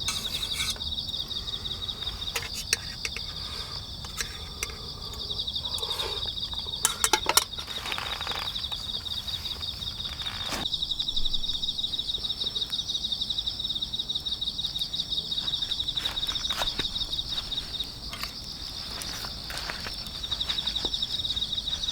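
Night insects, crickets, chirring steadily in a fast, even pulse, two high-pitched trills overlapping. A few scattered clicks and knocks are heard, the loudest a quick cluster about seven seconds in.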